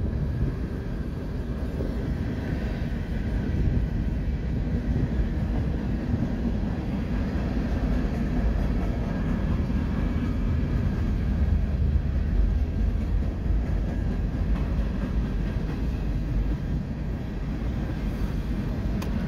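CSX manifest freight train's cars rolling past: a steady low rumble of steel wheels on the rails.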